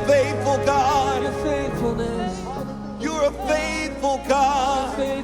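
Live worship-band music with a singer holding notes with vibrato over steady sustained accompaniment.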